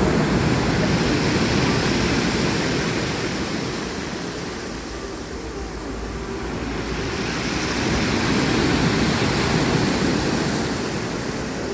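Sea surf washing onto the shore, with two swells: one at the start that fades over the first few seconds, and another that builds and breaks about eight seconds in.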